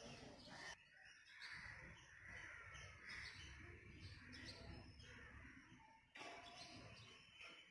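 Faint outdoor ambience with birds calling over a low rumble. The sound drops away abruptly twice, a little under a second in and about six seconds in.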